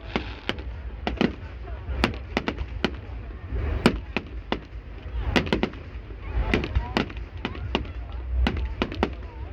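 Fireworks going off: an irregular run of sharp bangs and cracks, often several a second, over a steady low rumble.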